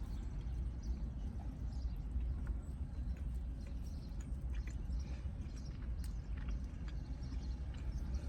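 Close-up chewing and mouth sounds of someone biting into and eating a steak, egg and cheese bagel sandwich, with faint irregular clicks, over a steady low hum.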